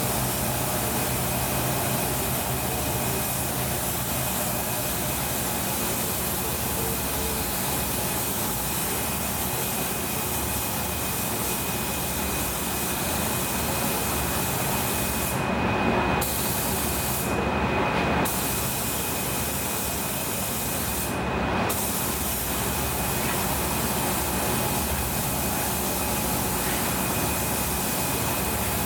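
Compressed-air spray gun hissing steadily as it sprays surfacer primer onto car body parts, with a faint steady high whine beneath. The hiss cuts out briefly three times about halfway through as the trigger is let go.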